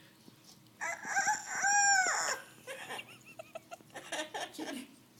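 Amazon parrot mimicking a rooster's cock-a-doodle-doo: one loud crow starting about a second in and lasting about a second and a half, its pitch rising and falling at the end. It is followed by softer, broken calls.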